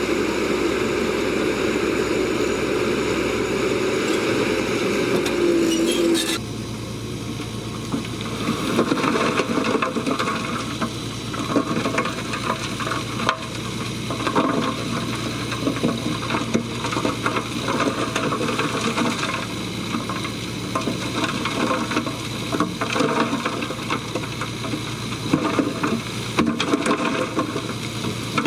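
Bulldozer at work: first a steady engine sound with a held whine for about six seconds. It then changes abruptly to continuous crackling and clinking over a low steady hum, typical of tracks and blade working through gravel and mud.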